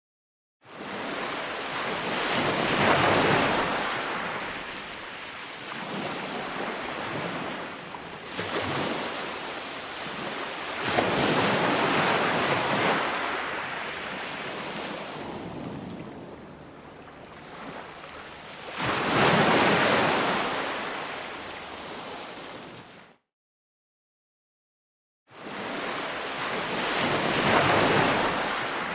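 Ocean waves breaking and washing in, surging and fading in four slow swells, with wind on the microphone. The sound drops out to dead silence for a moment at the start and for about two seconds around 23 seconds in.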